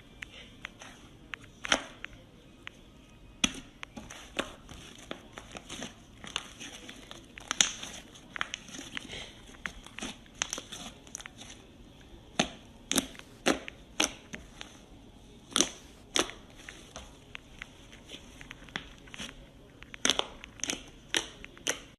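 Slime being squeezed and pressed by hand, giving irregular sharp crackles and pops, several in quick clusters.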